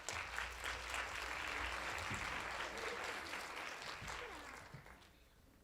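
Congregation applauding, fading away about five seconds in.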